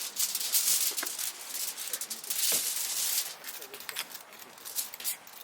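Irregular crinkling and rattling handling noises: a run of short, crackly rustles and clicks at an uneven pace.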